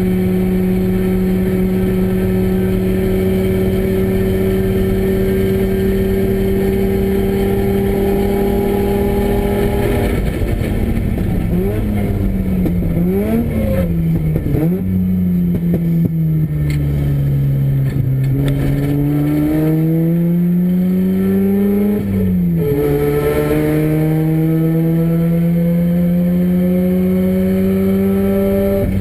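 Renesis two-rotor rotary engine in a race-prepared RX-7 running hard on track. The engine note climbs slowly for about ten seconds, then falls and wavers as the car slows for a corner with downshifts, climbs again, drops sharply with a gearshift a little after twenty seconds, and pulls up once more near the end.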